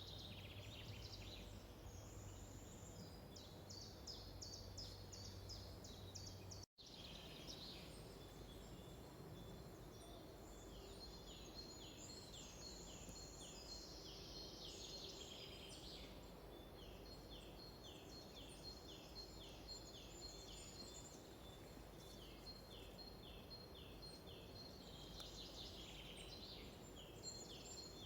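Faint songbirds singing in a forest, with repeated series of short, quick, descending notes and trills from more than one bird. About a quarter of the way in, the sound cuts out for an instant and a low hum underneath stops.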